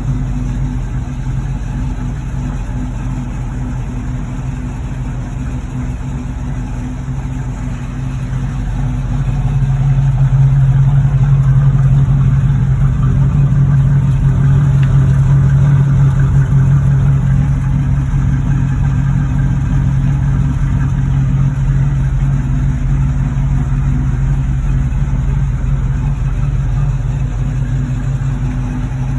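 1979 Chevrolet Camaro V8 engine running with a deep, steady exhaust note, growing louder about nine seconds in and easing slightly in the second half.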